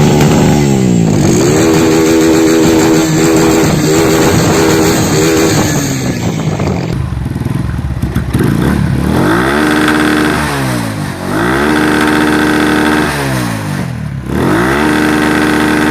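Motorcycle engine revving. In the first half it runs at high revs, and after a change about halfway through it is revved three times, each time climbing in pitch, holding, then dropping back.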